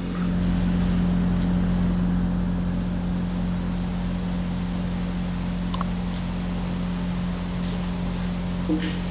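Kubota excavator's diesel engine running steadily at constant speed, with a few faint clicks.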